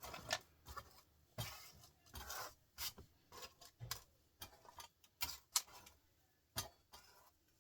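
Small strands of scrap copper wire being picked up and handled by hand: scattered light clicks, ticks and rustles at an uneven pace.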